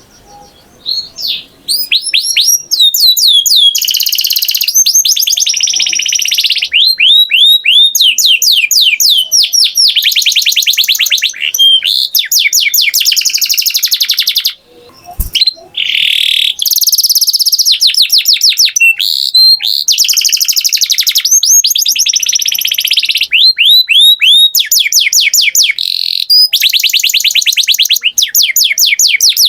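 Domestic canary singing: long phrases of rapid trills and quickly repeated falling whistled notes, each phrase changing to a new rolling note, with brief pauses near the start and about halfway.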